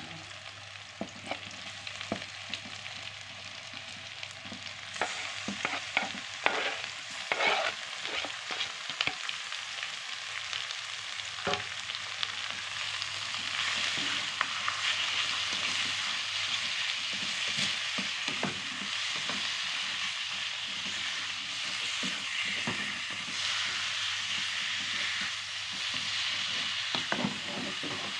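Thinly sliced beef frying in hot oil with garlic and onion: a steady sizzle, with scattered clacks and scrapes of a utensil stirring against the pan. The sizzle builds and is louder from about halfway through.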